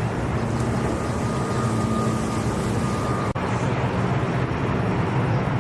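Aircraft engines running steadily, a continuous loud rumble with a faint high whine for a couple of seconds and a brief break a little over three seconds in.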